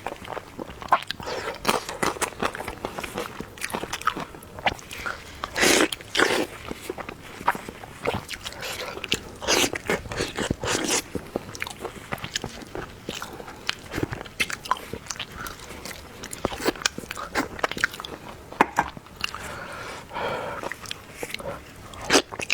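Close-miked eating sounds: a person chewing and biting into food, heard as a string of irregular short, sharp clicks.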